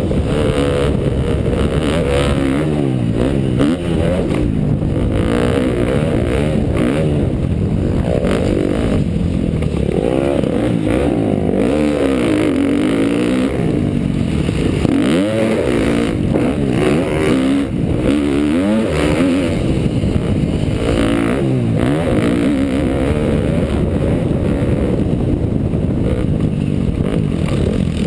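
2012 KTM dirt bike engine being ridden, revving up and down over and over, its pitch rising and falling every second or two as the throttle is worked through the laps.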